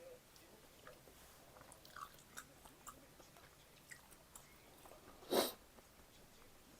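A person chewing food close to the microphone, with small wet clicks and crackles. About five seconds in comes one brief, louder noisy sound.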